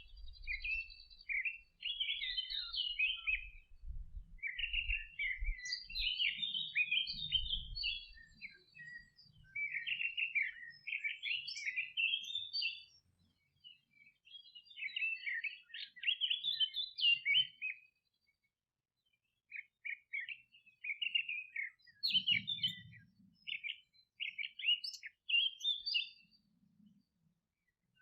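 Songbirds singing in a meadow, rapid jumbled chirping and twittering phrases of a few seconds each, with short pauses between them and a brief lull about two-thirds of the way through.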